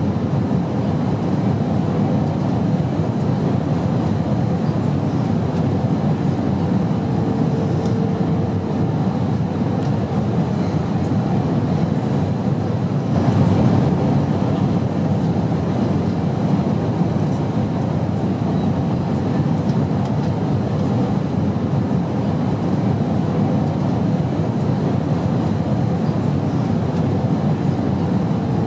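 Steady in-flight airliner cabin noise: a constant low drone of engines and rushing air, with a faint hum that comes in briefly and a slight swell about halfway through.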